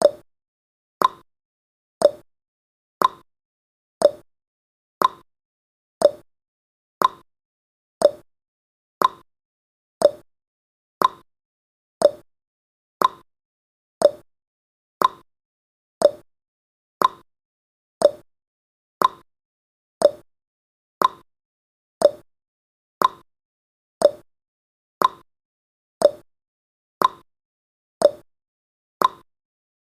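Ticking-clock sound effect, an even tick-tock at about two ticks a second, with a stronger click every second.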